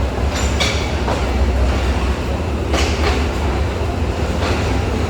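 Train running on the track: a steady heavy rumble with a few sharp clacks of the wheels over rail joints.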